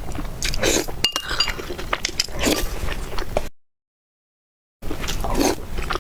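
Close-miked eating sounds: chewing and slurping noodles, with sharp clicks of utensils against a bowl. The sound cuts out completely for about a second past the middle, then resumes.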